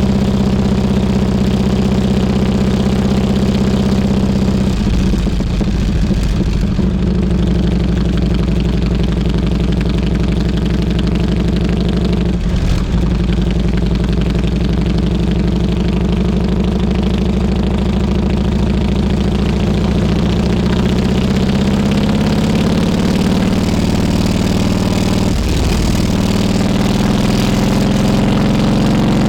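Harley-Davidson Road King Classic's V-twin engine running steadily on the road, briefly disturbed a few times and rising a little in pitch near the end.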